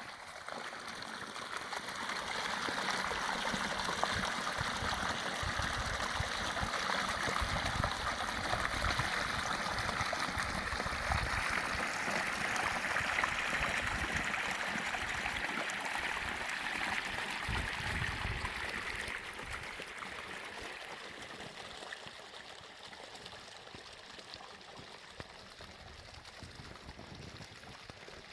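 A stream of water running and rushing. It swells over the first few seconds, is loudest through the middle and fades toward the end, with uneven low rumbles underneath.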